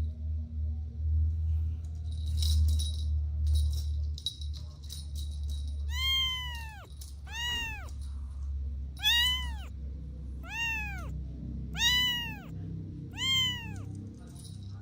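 Kitten meowing repeatedly: about six short high-pitched meows, each rising then falling in pitch, roughly a second and a half apart, beginning about six seconds in. Before them, a low steady hum and light rustling.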